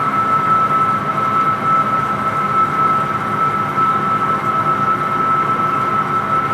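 Metal lathe running while turning a large part: a steady machine noise with one high, steady whine over it.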